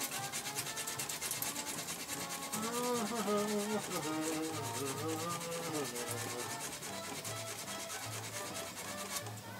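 Hand sanding with coarse sandpaper in rapid back-and-forth strokes, rubbing down high spots on a part so that it will fit.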